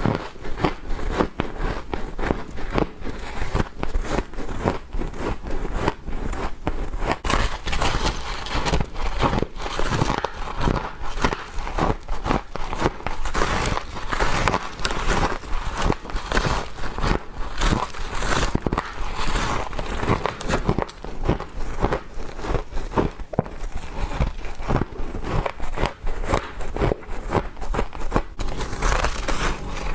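Close-up crunching of frost being bitten and chewed: humidifier-grown freezer frost breaking with a dense, crackly crunch, several crisp cracks a second without a break.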